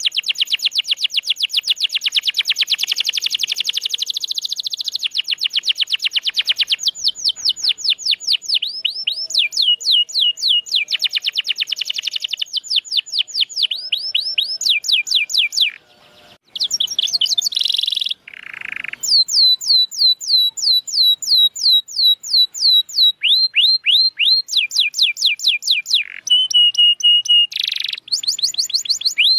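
Domestic canary singing a long song of rolling trills: rapid runs of sharp downward-sweeping notes, each phrase repeated many times before switching to another. There are brief breaks about two-thirds of the way through.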